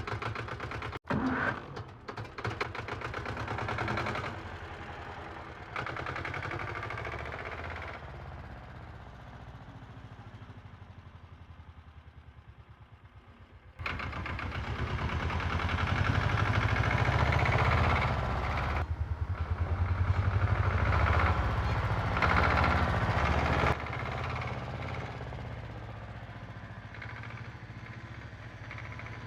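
A small motor running with a rhythmic pulse, in several segments that start and stop abruptly; it gets louder about 14 seconds in and eases off again near the end.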